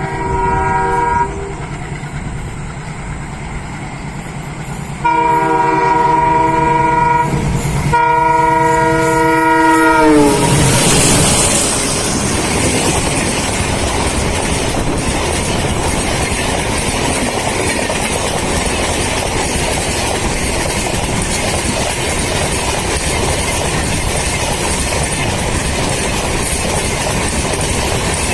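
Twin ALCo WDG-3A diesel locomotives passing at full speed: their multi-tone air horns sound three blasts, the pitch sliding down as the locomotives go by about ten seconds in. The train's coaches follow, a steady loud rush of wheels on rails with clickety-clack over the joints.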